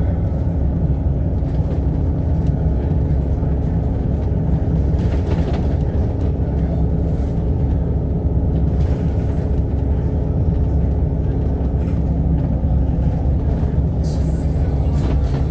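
Alexander Dennis Enviro500 MMC double-decker bus running steadily at cruising speed, with a constant deep engine and road rumble and a steady hum. A faint brief hiss comes near the end.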